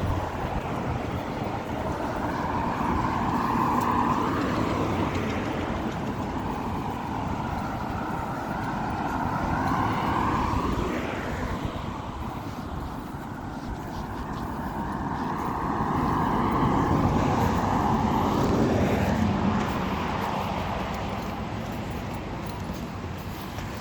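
Cars passing on a road, the traffic noise swelling and fading about three times as each vehicle goes by.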